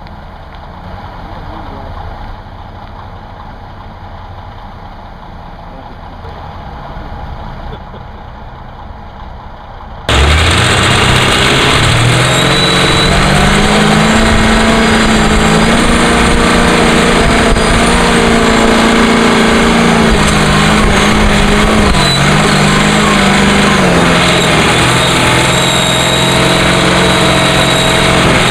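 Diesel engine of heavy earthmoving equipment. It runs quietly at first; about ten seconds in it turns suddenly loud and climbs in pitch to a steady high running speed, sagging briefly a couple of times as if under load, with a faint high whine over it.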